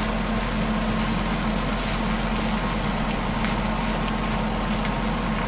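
Beef and chicken frying in a pan, a steady sizzle over a constant low hum.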